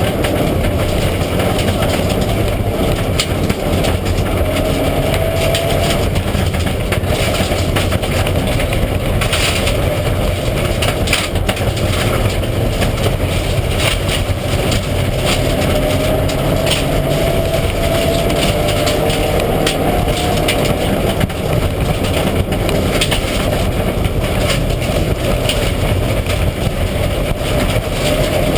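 Mitsubishi Lancer Evolution IX rally car at speed, its turbocharged four-cylinder engine running hard, revs rising and falling, under a loud, steady rush of road and tyre noise.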